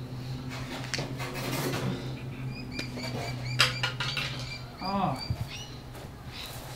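Small birds chirping in short, repeated high calls over a steady low hum, with a sharp click about three and a half seconds in and a brief vocal sound, rising then falling, at about five seconds.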